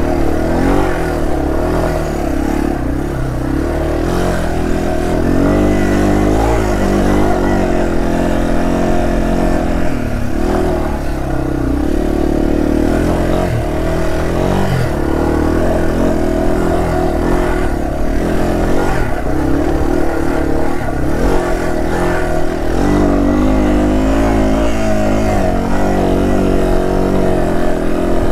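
Yamaha TW200's single-cylinder four-stroke engine running as the motorcycle is ridden, its pitch rising and falling again and again with throttle and gear changes.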